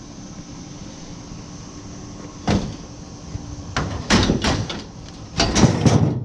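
Scrap metal clanking as it is loaded into a truck bed: a single knock about two and a half seconds in, then two runs of rattling clanks, the loudest near the end.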